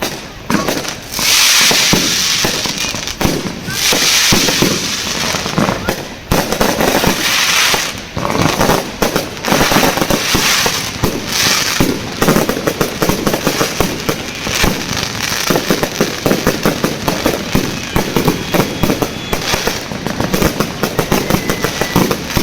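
Fireworks display going off. There are long hissing, crackling bursts over the first several seconds, then a fast, dense run of cracks and pops.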